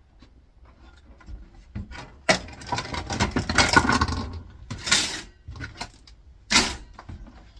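Parts of an air fryer being handled during a teardown: clattering, rubbing and small metallic knocks, busiest in the middle, with a few sharp knocks as pieces are set down.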